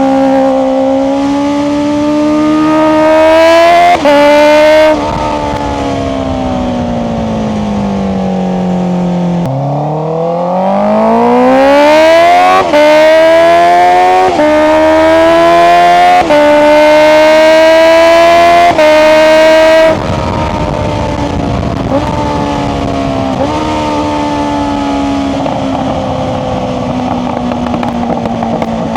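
Honda CBR650R's inline-four through an Akrapovic exhaust with the dB killer removed, pulling hard through the gears with quick upshifts, each a short dip in the note. Between pulls it falls back on closed throttle with short blips on the downshifts and a rough crackling from the exhaust on overrun.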